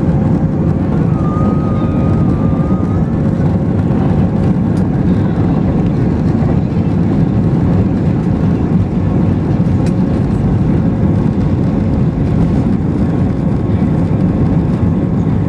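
Airbus A320 jet engines at takeoff power, heard inside the cabin: a steady, loud, deep roar with a thin steady whine over it.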